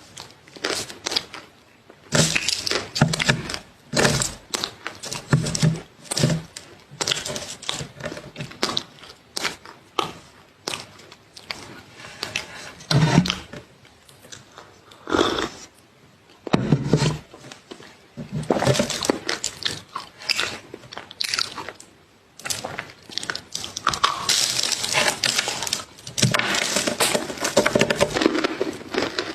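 Close-miked crunchy food being bitten and chewed: a rapid run of crisp, crackly crunches in clusters, with a denser stretch of crunching near the end.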